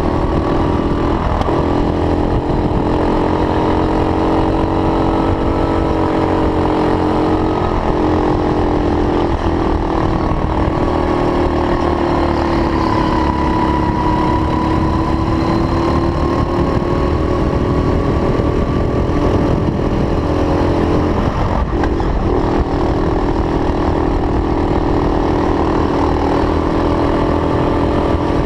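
Racing go-kart engine running hard and steadily, its pitch drifting gently up and down as the throttle changes, with a constant low rumble beneath.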